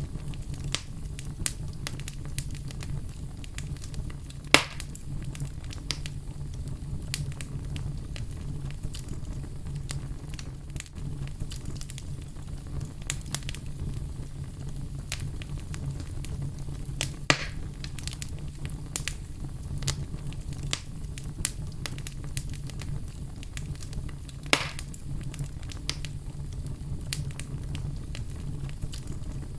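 Wood fire burning steadily with a low rumble and constant small crackles, plus three louder pops spread through the stretch.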